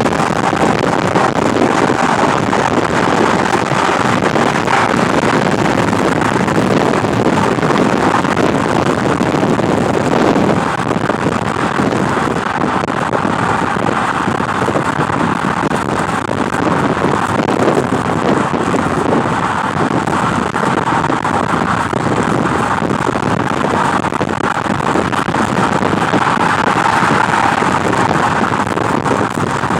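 Wind rushing over the microphone in a car, with road noise, as a loud, steady hiss and rumble that never lets up.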